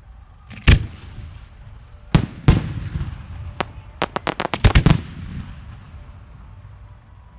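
Display fireworks going off: single loud bangs a second or so apart, then a rapid string of about eight reports within one second, each followed by a rumbling echo.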